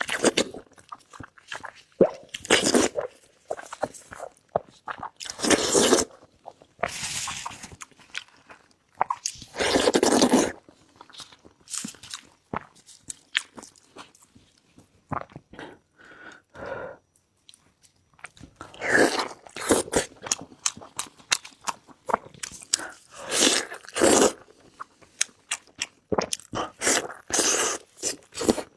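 Close-miked eating of meat: chewing and biting in irregular bursts, with short pauses between mouthfuls.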